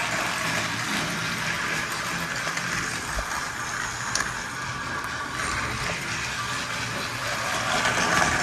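Battery-powered Trackmaster toy train running on plastic track: a steady whir of its small motor and gears, with a couple of light clicks from the wheels over the track.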